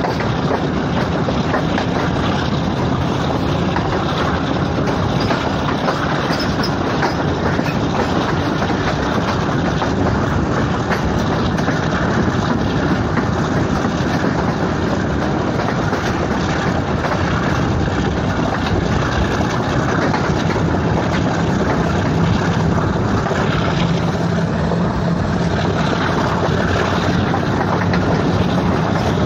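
Passenger train running, a steady, unbroken rumble of the moving train, with a low hum growing a little stronger about two thirds of the way through.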